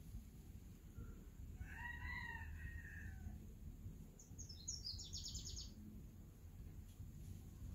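Birds calling: a longer call with several pitched layers about two seconds in, then a quick run of high chirps about four to five seconds in, over a low rumble.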